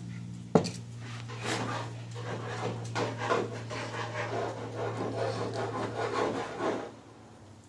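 Scraping and rubbing of a metal pick or razor blade working at a stuck oil control ring in the groove of a Mazda 13B rotary engine rotor, in many short irregular strokes, with a sharp click about half a second in. A steady low hum runs underneath and stops near the end.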